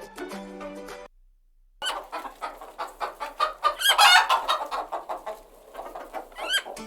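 Hen clucking and cackling in a run of repeated sharp calls, loudest about four seconds in, starting after a short silence. A music jingle ends about a second in.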